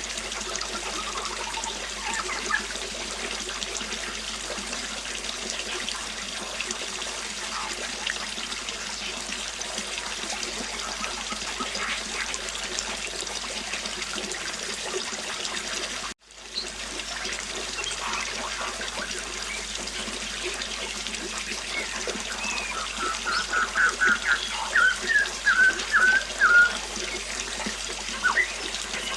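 Flowing river water running steadily, with birds chirping. A quick run of bird notes in the last third is the loudest sound, and the water cuts out for an instant about halfway through.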